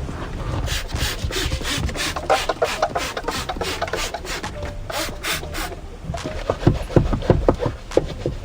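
Scrubbing a surface in quick back-and-forth strokes, about three or four a second, stopping about six seconds in, followed by scattered clicks and knocks.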